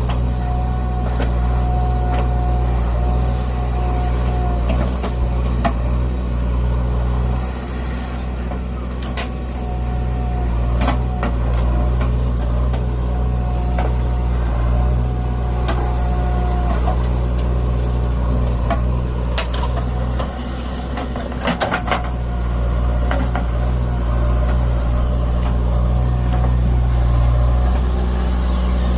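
Heavy diesel engine of a JCB 3DX backhoe loader running steadily under work, easing off briefly twice. A thin whine comes and goes several times, and there are a few sharp clanks, with a quick cluster about three-quarters of the way through.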